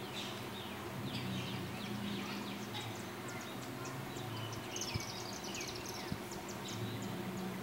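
Birds chirping in many quick short calls over a steady low hum, with two light knocks about five and six seconds in.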